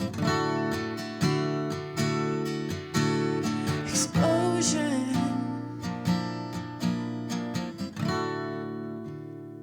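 Acoustic guitar strummed in a steady rhythm as an instrumental break between sung lines; about eight seconds in, a last chord is left ringing and slowly fading.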